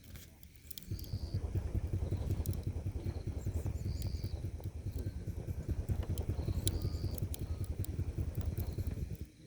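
Campfire being fanned: air buffets the microphone in a fluttering low rumble that starts about a second in and stops suddenly near the end, over scattered crackles from the burning wood.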